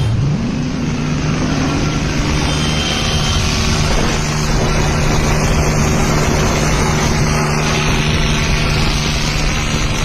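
Tractor engine revving up in the first couple of seconds, then running steadily at speed.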